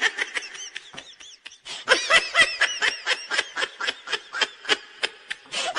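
High-pitched giggling: a quick string of short laugh bursts, about four a second, faint at first and louder from about two seconds in.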